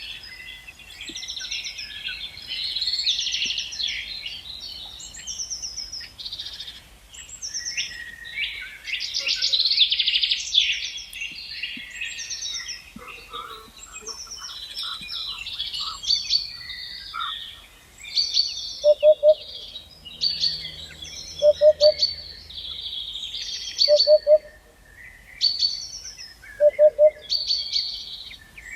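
Several songbirds singing and chirping together, overlapping whistled phrases and trills. From about two-thirds of the way in, a lower hooting call of three or four quick notes repeats about every two and a half seconds.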